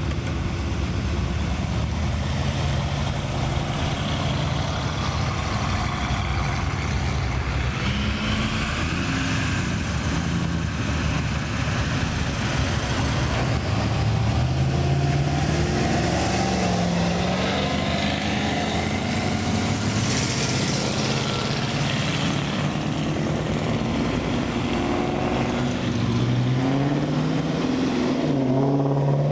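Classic cars driving out of a car show one after another, their engines running and rising in pitch as each one accelerates away. The clearest rises come about halfway through and again near the end.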